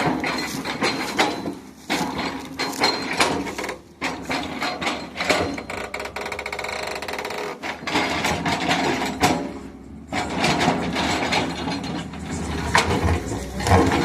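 Excavator-mounted hydraulic breaker hammering a concrete wall: irregular knocks and impacts, with a stretch of rapid, steady hammering in the middle.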